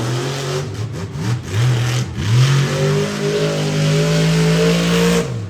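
Monster truck's supercharged V8 engine revving: a few quick blips over the first two seconds, then held at high revs for about three seconds before dropping off near the end.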